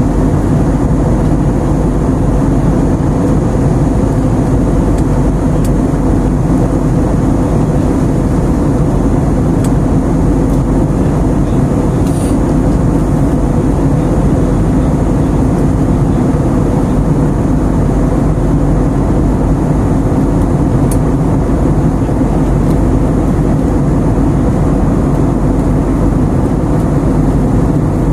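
Steady, loud rumble of a running vehicle, with a constant low hum and no change in pace.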